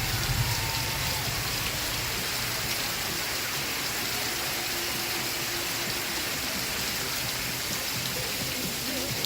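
Steady, even rain, with faint music playing underneath it.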